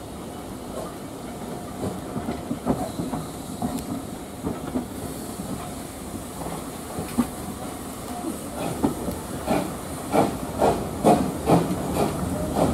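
Steam train moving along the line: steam hissing, with clanks and wheel clatter that grow louder over the last few seconds.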